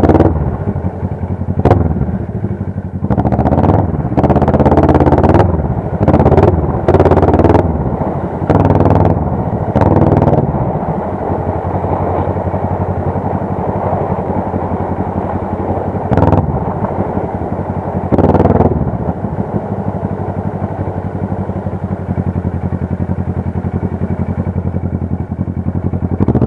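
Motorcycle engine running steadily while riding on the road, with repeated louder swells in the first ten seconds and another about two-thirds of the way through, then settling into an even drone near the end.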